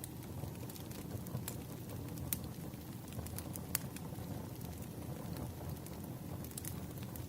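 Fireplace crackling: a steady low rumble of burning wood with sharp pops and snaps at irregular intervals.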